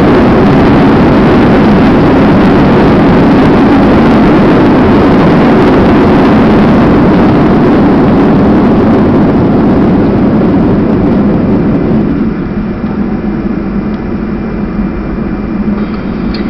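Inside the cabin of a Boeing 737-200 during its landing roll: a loud, steady rumble of the Pratt & Whitney JT8D engines and the runway. It eases off about twelve seconds in as the jet slows.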